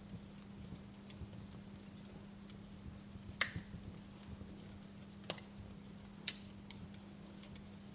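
Wood fire crackling in a fireplace: a steady hiss with a low hum under it, and scattered sharp pops. The loudest pop comes about three and a half seconds in, with two more a couple of seconds later.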